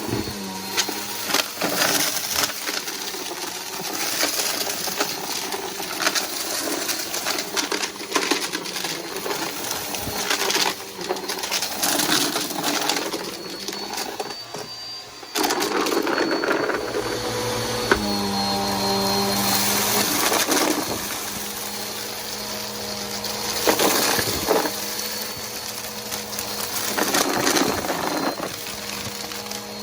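Bissell PowerForce Helix upright vacuum cleaner running, with a steady motor hum and a faint high whistle, under frequent clicks and rattles of debris being sucked up.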